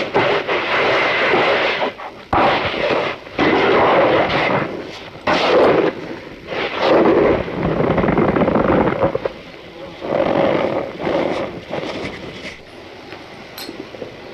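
Cornstarch powder being squeezed and crushed by hand, giving squeaky crunches in about eight separate squeezes of roughly a second each, softer over the last few seconds.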